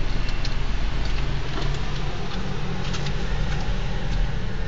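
Car engine running, heard from inside the cabin: a steady low hum with a few faint clicks.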